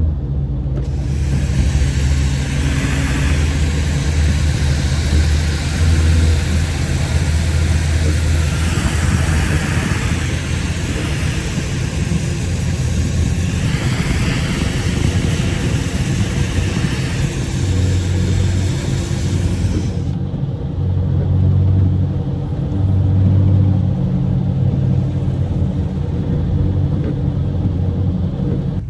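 BMW 328i's turbocharged four-cylinder engine running with a steady low drone as the car drives. A broad steady hiss of road noise lies over it and cuts off abruptly about twenty seconds in.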